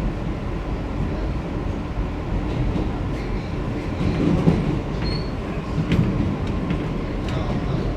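R160B subway car running through the tunnel, heard from inside the car: a steady low rumble of wheels and motors. A few sharp wheel clicks over the track come in the second half, with a brief high squeal about five seconds in.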